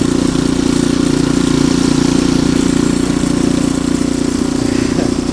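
Ariens Deluxe 28 snowblower's single-cylinder engine running steadily at a constant speed.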